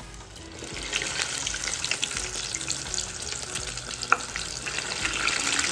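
Food frying in hot oil, sizzling and crackling. The sizzle swells about half a second in, and there is one sharp louder pop about four seconds in.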